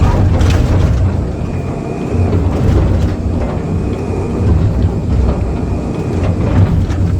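Excavator's diesel engine running steadily under working load, with a few knocks and scrapes of the bucket against concrete slabs.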